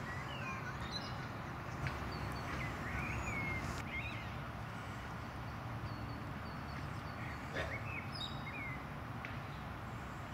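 Small birds chirping in short rising and falling phrases every second or so, over a steady low outdoor rumble.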